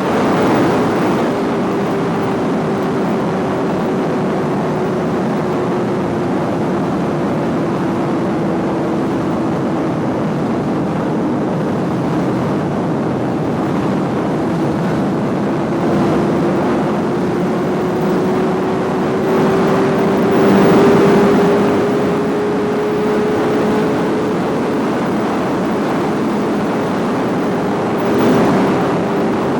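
Suzuki GSX-R sport motorcycle cruising, its engine note sinking slowly and then climbing again as speed eases off and picks back up, over a steady rush of wind and road noise. The sound swells louder briefly about twenty seconds in and again near the end.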